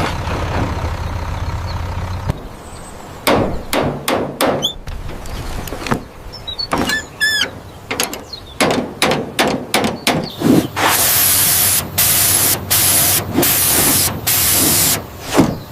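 Cartoon mechanical sound effects: a series of sharp clicks and knocks with a few short squeaky chirps, then several loud bursts of hiss about two-thirds of the way through.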